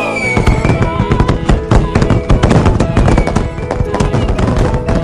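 Fireworks sound effect: dense, rapid crackling and popping, with background music underneath.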